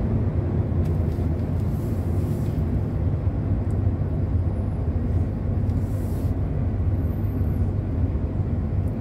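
Steady low drone of a long-haul truck's engine and tyres, heard from inside the cab while driving at road speed.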